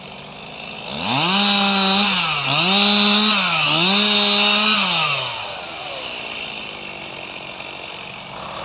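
Two-stroke chainsaw revved up about a second in, held at high revs with two brief dips, then let fall back to idle around five seconds in.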